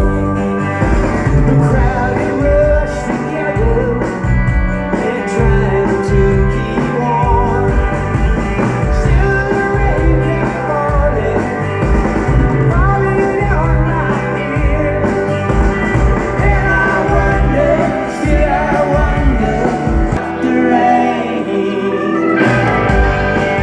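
Live rock band playing a song with singing, electric guitar, bass and drums at a steady beat, heard as an audience recording at a concert. The lowest notes drop out for about two seconds near the end, then the full band comes back in.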